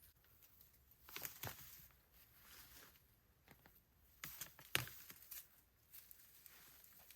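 Leaves and leafy twigs being gathered and handled: faint rustling and crinkling with a few sharp cracks, the sharpest a little before five seconds in.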